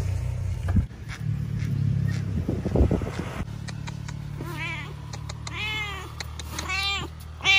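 Cat meowing repeatedly: about four meows in the second half, each louder than the last.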